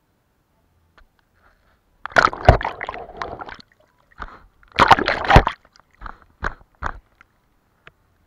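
Paintbrush swished in a jar of rinse water: two bouts of sloshing, then a few short splashes.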